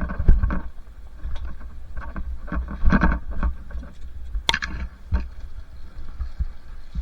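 A two-stroke dirt bike riding a rough trail: a heavy low rumble of engine and wind on the microphone, broken by irregular knocks and rattles as the bike goes over bumps.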